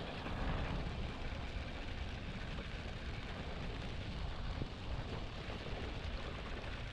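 Steady rushing noise of a scooter ride in the rain, with a low, uneven rumble underneath.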